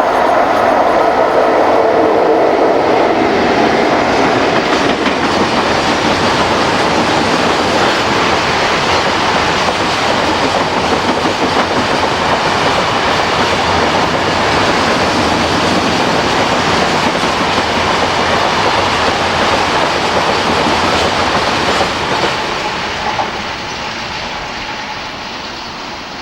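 A freight train rolling past at speed, its wagons' wheels running loud and steady on the rails, fading away over the last few seconds.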